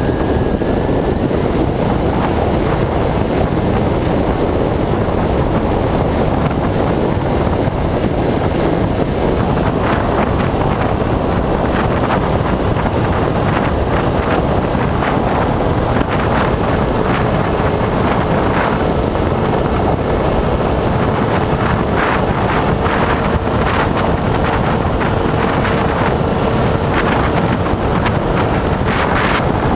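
Loud, steady wind rush over an onboard camera on an AXN Floater-Jet RC plane in flight, with the plane's electric motor and propeller beneath it. A steady motor tone comes through about halfway in, with some crackling buffets toward the end.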